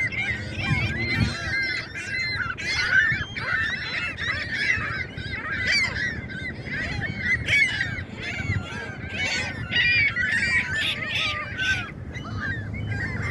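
A large flock of geese honking, many calls overlapping into a continuous din.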